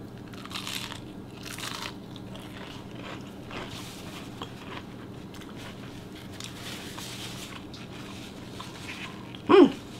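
Biting into a crisp deep-fried hush puppy: two crunches in the first two seconds, then quieter chewing.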